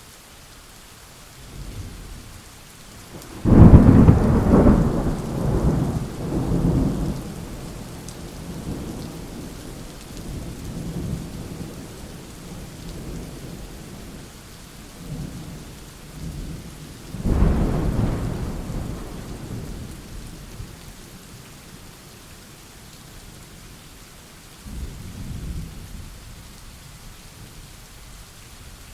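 Thunderstorm: steady rain with thunder. A loud clap of thunder about three and a half seconds in rolls on for several seconds, a second clap comes near the middle and fades slowly, and a fainter rumble follows near the end.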